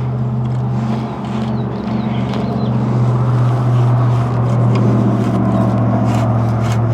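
Steady machine hum, like a motor running, with a low pitch that dips briefly about one and two seconds in. Light clicks are scattered over it.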